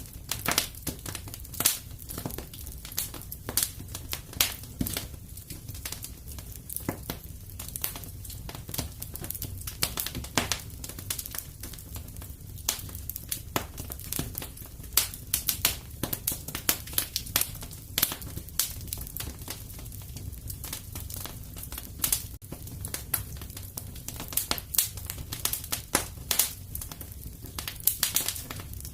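Fire in a fireplace crackling: dense, irregular pops and snaps over a steady low rumble.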